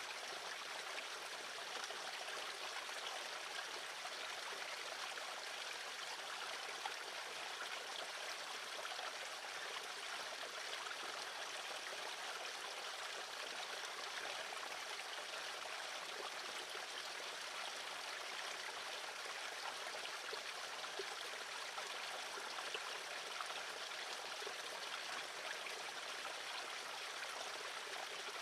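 Steady rushing noise, like running water, with no calls standing out.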